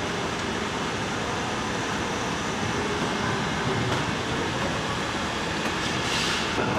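Steady, loud din of plant machinery running, with a short high hiss about six seconds in.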